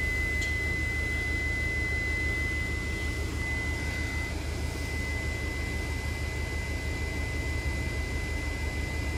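2015 Subaru WRX STi idling with the air conditioning and blower fans at full speed: a steady low engine rumble under an even rush of air. A steady high-pitched tone sounds throughout.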